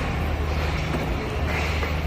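Tezgam Express passenger train running along the track with a steady low rumble and an even rush of noise.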